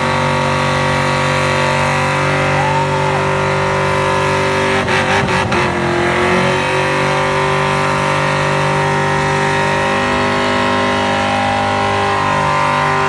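Mustang engine held at high, steady revs, most likely during a burnout, with a few sharp cracks about five seconds in.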